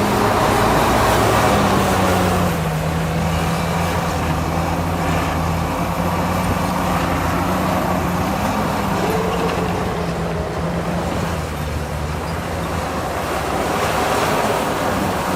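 Heavy diesel engine of an earthmoving machine running steadily with a deep hum. Its pitch drops slightly about two and a half seconds in and lifts briefly around nine seconds.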